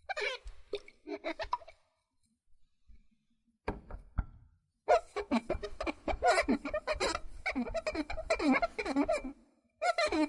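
Glass squeaking in short bursts of squeaks whose pitch bends up and down. There is a pause, then a few sharp clicks about four seconds in, then a long dense run of squeaks and another short burst near the end.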